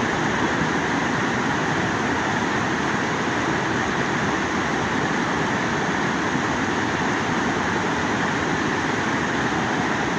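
Steady rushing of a swollen flood torrent, an even unbroken noise.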